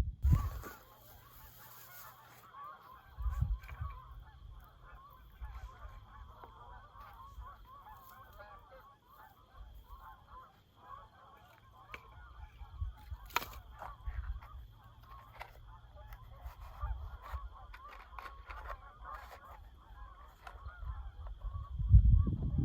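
A flock of geese honking continuously in a dense, overlapping chorus. Gusts of wind rumble on the microphone at times, strongest near the start and near the end.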